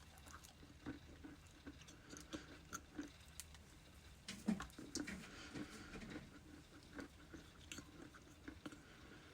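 Ice being bitten and chewed close to the microphone: irregular soft crunches a few times a second, with a louder crunch about four and a half seconds in.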